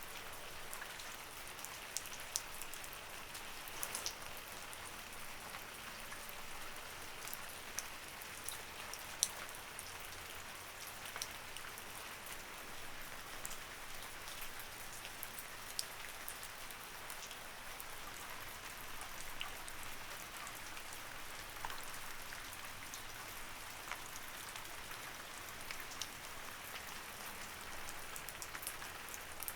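Light rain falling steadily: a soft, even hiss with many separate drops ticking sharply on a surface.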